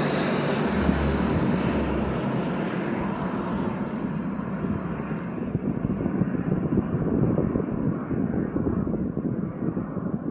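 Boeing 747 air tanker's four jet engines roaring as it passes low overhead, very loud, then receding, the high-pitched part of the roar fading away.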